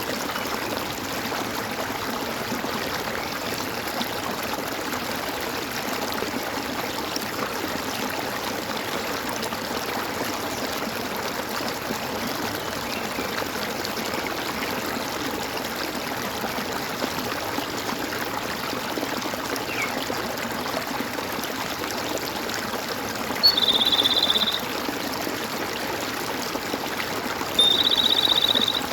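A stream gurgling and trickling steadily. Near the end, an animal gives two loud high-pitched calls about four seconds apart, each lasting about a second.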